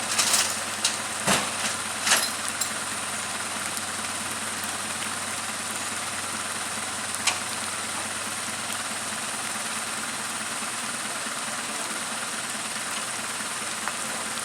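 Vehicle engine idling steadily, with several sharp knocks in the first two seconds and one more about seven seconds in.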